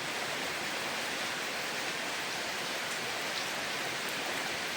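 Heavy monsoon rain falling, a steady even hiss.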